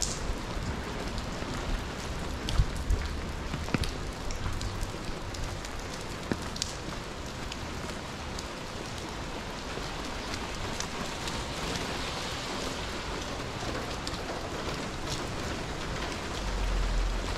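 Steady rain falling on wet pavement, with scattered sharp taps of drops landing close by, most of them in the first few seconds. A low rumble swells briefly near the end.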